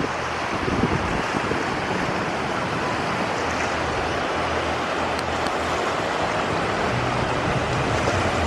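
Steady wind on the microphone mixed with surf along a coral shoreline, with a faint low hum underneath that grows a little stronger near the end.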